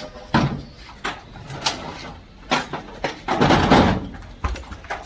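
A series of metallic clanks and knocks, with a longer rattling clatter about three and a half seconds in, from engine parts and tools being handled as a removed small diesel engine is set down for teardown.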